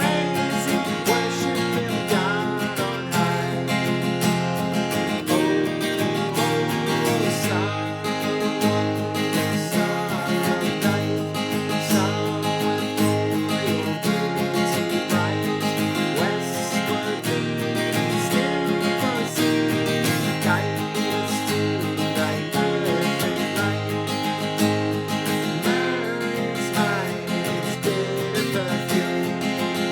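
Seagull S6 mahogany steel-string acoustic guitar strummed, playing an instrumental Christmas tune with freshly fitted strings.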